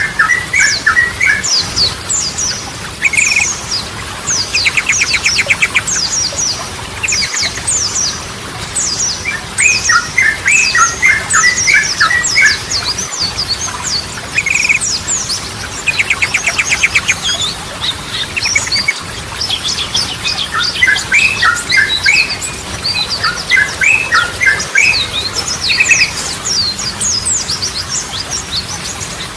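Yellow-vented bulbul song: short bubbly, gurgling phrases repeated every few seconds, twice broken by a rapid, even trill, over a steady run of sharp high-pitched chirps.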